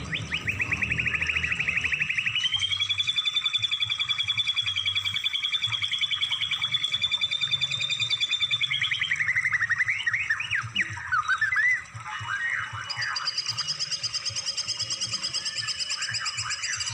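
Recorded songbird 'isian' song used as masteran training material: long, fast trills of rapidly repeated notes for most of the first nine seconds, then a run of varied short chirps and whistles, then another fast trill with higher notes.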